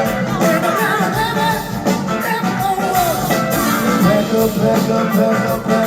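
Live blues-rock band playing: drums, bass and electric guitars, with a wavering, sliding lead line over the top.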